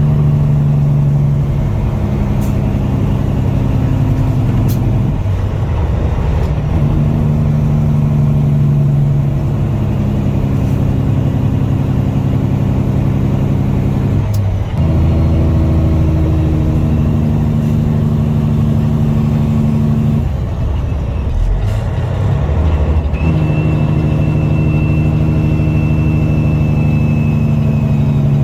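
Peterbilt semi truck's diesel engine pulling a loaded salt dump trailer, running steadily under load. The engine note breaks off and picks up again three times, about five, fourteen and twenty-one seconds in, as gears are changed.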